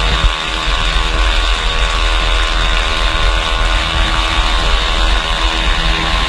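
Two-stroke motorcycle engine noise, steady and unbroken, with a constant pitch.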